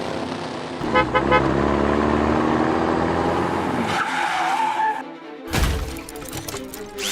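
Background music mixed with added toy-car sound effects: a car engine and a tyre skid, with a sudden loud noise about five and a half seconds in.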